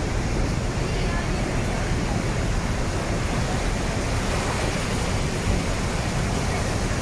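Steady rushing roar of the Rhine Falls, a large river waterfall, heard as an even wash of water noise heaviest in the low end.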